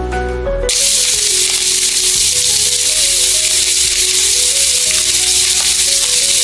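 Marinated chicken frying in a hot pan: a steady, loud sizzle that starts suddenly a little under a second in, with background music underneath.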